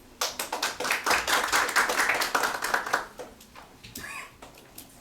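Audience applause in a concert hall, starting just after the start and dying away after about three seconds.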